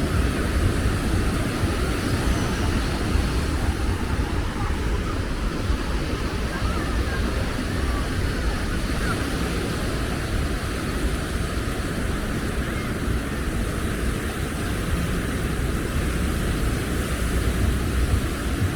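Steady rumbling wind buffeting the microphone over a continuous wash of beach surf, with faint distant voices.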